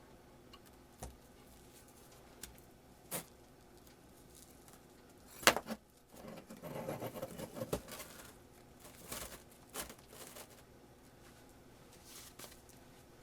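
Small handling noises: scattered light clicks and taps, the loudest a sharp knock about five and a half seconds in, followed by a couple of seconds of rustling.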